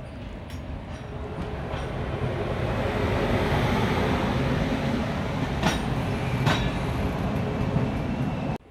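Passenger train running on the rails, its rumble building over the first three seconds and then holding steady. Two sharp clacks come near the middle, and the sound cuts off suddenly near the end.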